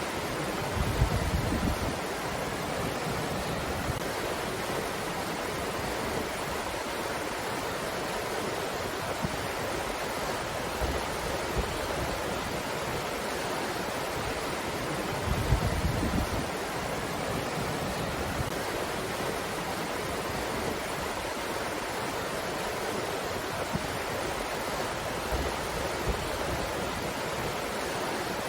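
Steady rushing of wind, with brief low rumbles of gusts buffeting the microphone about a second in and again about halfway through.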